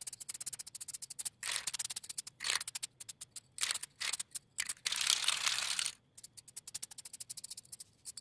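Aerosol spray paint can being shaken, its mixing ball rattling in a fast run of clicks, with several short bursts of spray hiss; the longest burst lasts about a second, a little past the middle.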